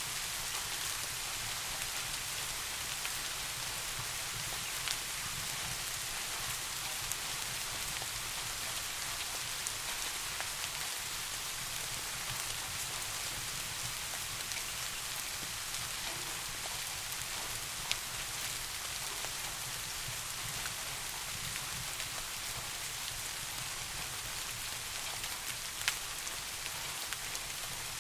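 Steady rain falling on a surface, an even hiss with a low steady rumble underneath and a few sharp clicks spread through it.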